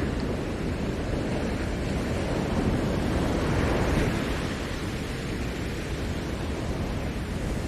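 Ocean surf washing onto a Maui shore, a steady rush of breaking waves that swells about halfway through and then eases.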